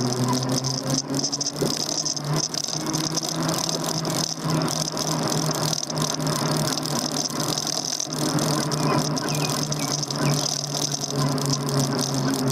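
Daymak Max e-bike under way: a steady motor hum with a high whine above it, and a continual rattle of the bike and its handlebar-mounted gear.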